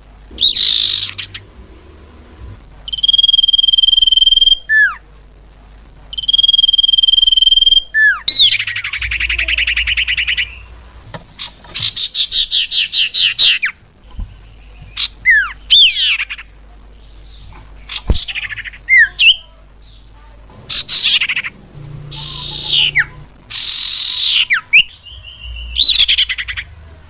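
Cipau bird calling, as played for luring birds: long steady whistles alternate with short, sharply hooked notes. Midway the bird breaks into a fast run of rapid repeated notes, then a series of quick downward-sweeping calls.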